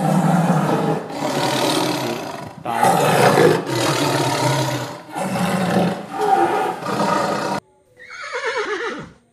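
A tiger roaring in a run of about six loud roars back to back, cutting off suddenly. Near the end a horse whinnies once, falling in pitch.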